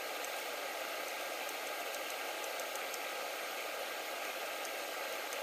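Chicken strips and diced onions sizzling in olive oil in a saucepan: a steady frying hiss with a few small pops of spitting oil.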